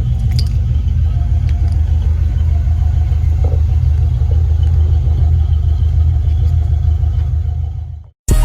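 Steady low rumble of a car cruising at highway speed, heard from inside the cabin. It fades out just before the end.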